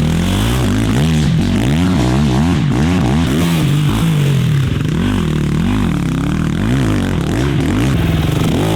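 KTM 125 two-stroke dirt bike engine being ridden hard, revving up and dropping back over and over, its pitch rising and falling about once or twice a second as the throttle is worked.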